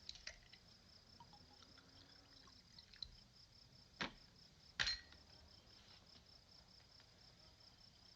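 Crickets chirping steadily and faintly as night ambience, with two sharp clicks about four and five seconds in.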